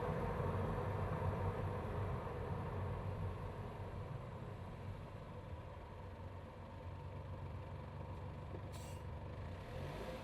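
BMW B48 2.0-litre turbocharged four-cylinder running, heard close up from inside the engine bay. Its level eases down over the first few seconds, and a short hiss comes about nine seconds in.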